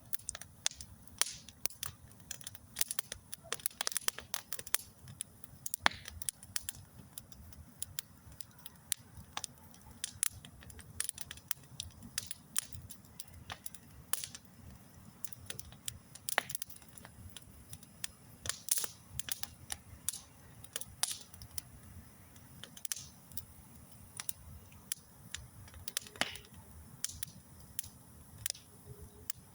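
Wood fire crackling: irregular sharp pops and snaps, some much louder than others, over a faint low rumble of the flames.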